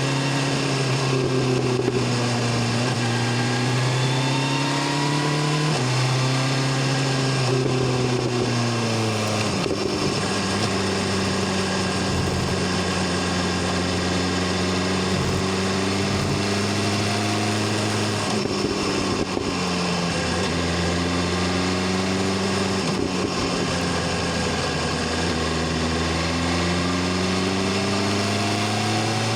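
BMW S1000RR inline-four engine and exhaust under way: the note holds, falls about a third of the way in as the bike slows, runs steady and lower through the middle, then rises again near the end as it accelerates.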